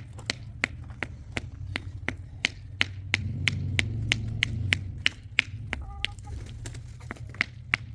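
Steady rhythmic tapping, about three sharp knocks a second, over a low hum that swells for a couple of seconds in the middle.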